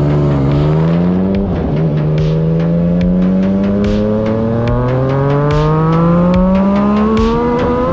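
Yamaha MT-09 SP motorcycle's inline-three engine through its exhaust, pulling under load with the pitch dipping briefly about half a second in and then climbing slowly and steadily, with short sharp cracks scattered through it.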